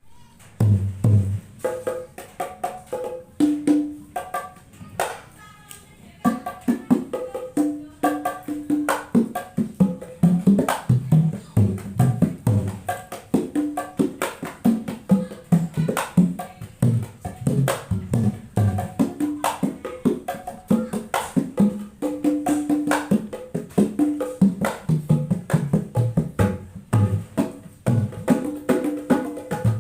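Sundanese jaipong kendang played by hand as a sound test after a service with a replaced kemprang. It is a dense rhythmic run of sharp slaps and deep strokes, some of them bending in pitch, with a short quieter stretch about four seconds in.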